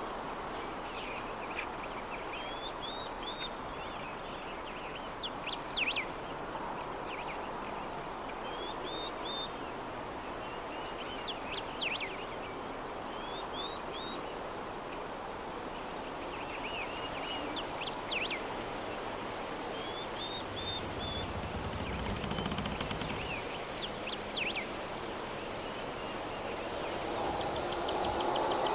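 Soft steady breeze with small birds chirping, one short phrase of quick downward notes coming back about every six seconds. Near the end a louder, lower animal call with a held tone comes in.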